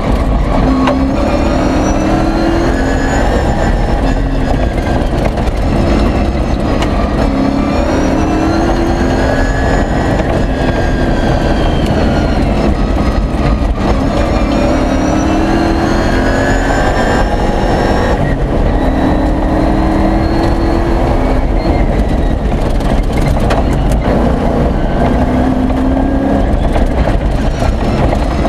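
V8 engine of an off-road rally racer heard from inside the cockpit under hard acceleration, its revs climbing and dropping again at each gear change about every three to five seconds. A steady rumble of tyres and stones on the gravel track runs underneath.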